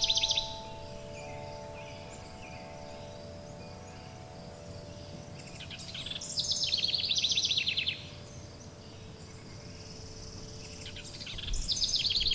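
A songbird singing a fast, two-second trilled song that drops in pitch, repeating about every six seconds, over wind chimes ringing in long sustained tones and a soft steady hiss.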